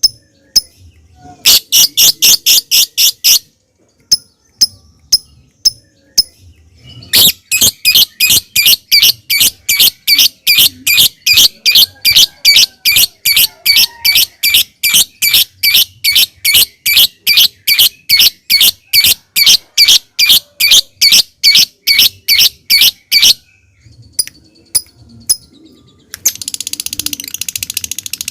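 Lovebird calling: sharp, high chipping notes, a few spaced ones and a short fast run, then a long even series at about three notes a second. Near the end it breaks into a dense, continuous shrill chatter, the lovebird's 'ngetik' leading into 'ngekek'.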